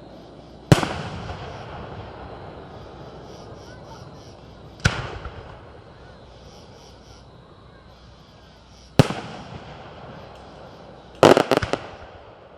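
Fireworks display: three single loud bangs about four seconds apart, each echoing away, then a quick string of several cracks near the end.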